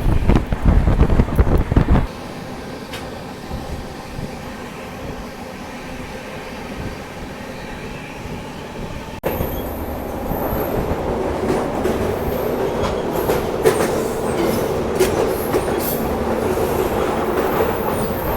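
Hirakhand Express passenger train running on the rails, heard from on board: a steady rumble with wheel clicks over the rail joints. Wind buffets the microphone for the first couple of seconds. The sound cuts abruptly about nine seconds in and comes back louder.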